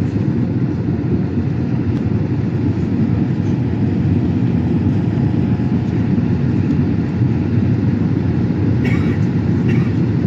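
Steady low rumble of cabin noise inside a Boeing 787-8 airliner, from its engines and the airflow, with a couple of faint short sounds near the end.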